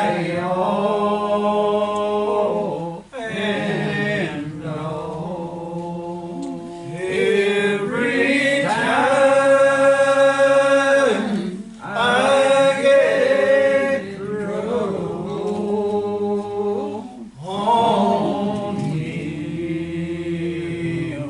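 Slow church singing with long held notes, sung in phrases a few seconds long with short breaths between them.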